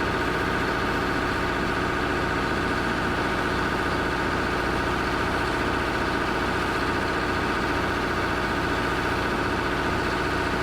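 Heavy machine's engine running steadily at constant speed.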